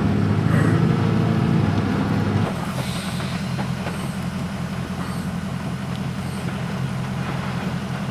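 Vehicle engine heard from inside the vehicle, easing off with its pitch sinking over the first couple of seconds, then dropping to a quieter steady hum at low revs. Faint light ticks come about once a second through the rest.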